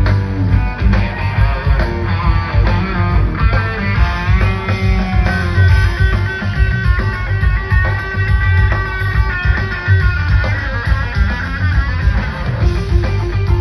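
A live rock band playing an instrumental jam: an electric guitar lead holds long, wavering, gliding notes over bass and drums.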